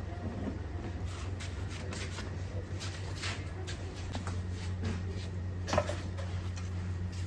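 Steady low hum with scattered light rustling and clinking as parts are handled, and one sharper knock about six seconds in.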